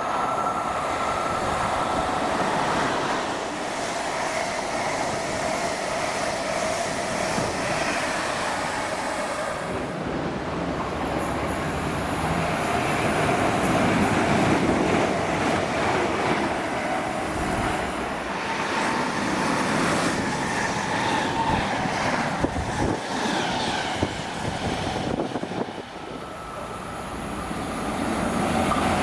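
A run of British electric passenger trains passing at speed, one clip after another: a Class 90 electric locomotive hauling coaches, then a Class 360 and a Class 745 electric multiple unit, each a steady rush of wheels on rail and air. The sound changes abruptly about three times where one pass cuts to the next.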